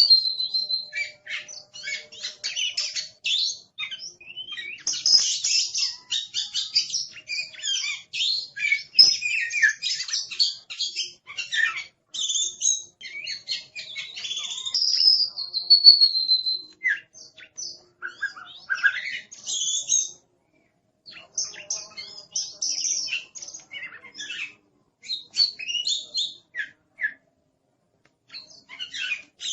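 Oriental magpie-robin (kacer) singing a noisy, fast, varied song of high chirps, trills and whistles. There are short pauses about twenty seconds in and near the end.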